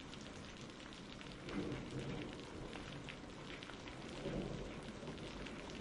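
Faint steady rain: a soft hiss of falling rain with scattered patter of drops.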